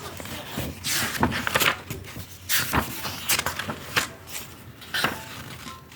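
Pages of a paper book being leafed through: a series of separate rustling page turns, several seconds apart.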